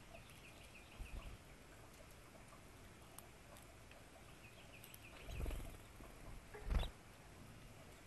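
Small songbirds chirping in two short runs of quick, high notes, with a few low thumps and one sharper knock.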